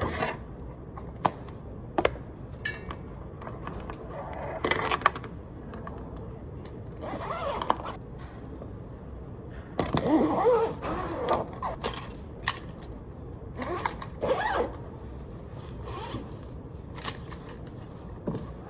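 Rustling, scraping and scattered clicks of small objects being handled and set down, with a zipper-like sound among them.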